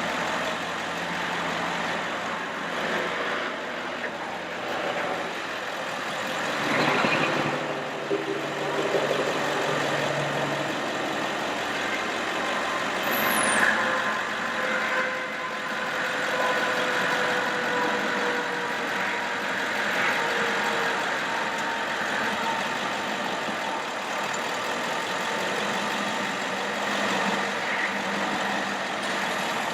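1999 Ford F550 bucket truck's engine running steadily, driving the PTO hydraulic pump while the Altec AT37-G boom is worked, with a faint whine that drifts slightly lower in pitch partway through.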